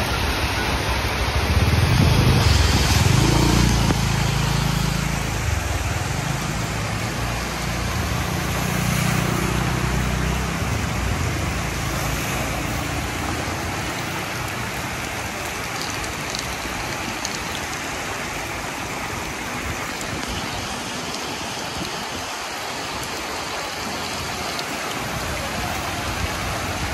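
Heavy tropical rain and floodwater running down a street make a steady hiss. A low rumble is loudest a couple of seconds in and fades out by about ten seconds.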